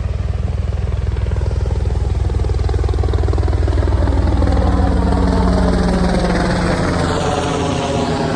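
Helicopter flying low past: a fast rhythmic rotor chop with engine whine that grows louder to about the middle, then drops in pitch from about two-thirds in as it passes and moves away.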